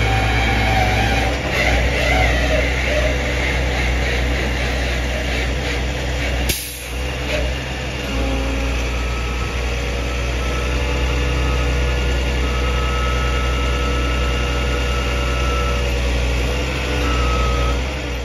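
A motor vehicle engine running steadily, with a low hum under a constant noise. There is a sharp click and a brief drop about six and a half seconds in.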